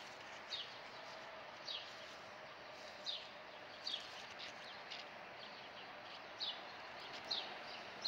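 Small birds chirping: short, high, falling chirps repeated about once a second, over a faint steady background hum.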